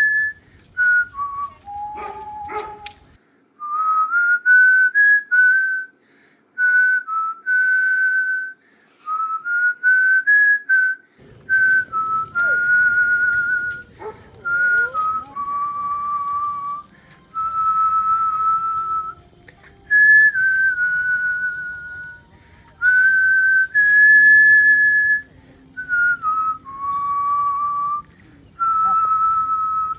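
A person whistling a melody: a clear single tone moving step by step between held notes, in phrases with short breaks.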